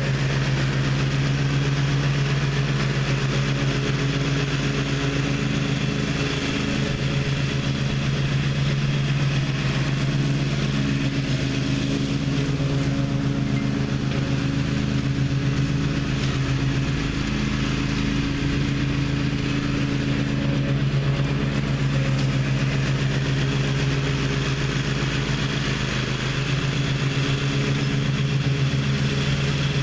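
Gravely ZTx 42 zero-turn mower's engine running at a steady speed throughout.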